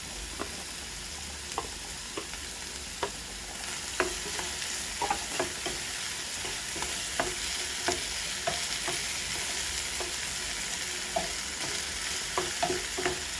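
Vegetables frying in a pan, a steady sizzle, while a spoon stirs them, with irregular clicks and scrapes of the spoon on the pan. The sizzle gets a little louder about four seconds in.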